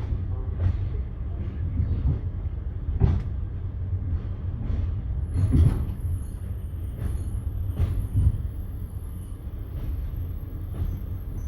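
Railway noise heard from inside a passenger carriage: a steady low rumble with irregular knocks and clanks, the loudest about three and five and a half seconds in. A faint high whine comes in at about five seconds.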